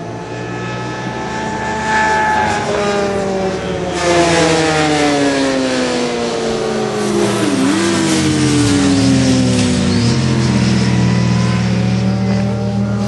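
Several racing sport motorcycles running at high revs on the track. Their engine pitch slides steadily downward as they go by, with a couple of brief dips in revs about two-thirds of the way through.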